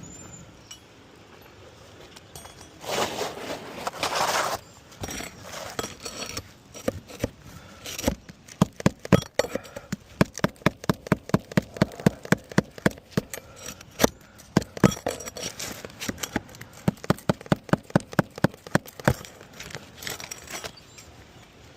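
Hand tools at work on an asphalt roof shingle as a damaged shingle is being pried out: a brief scraping rustle, then a long run of sharp, quick knocks, about three a second, through the middle.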